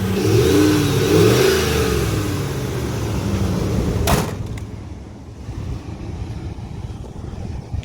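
A 2003 Dodge Ram 1500's 5.7-litre Hemi V8 is revved several times, its pitch rising and falling. About four seconds in there is a single sharp knock, after which the engine idles more quietly.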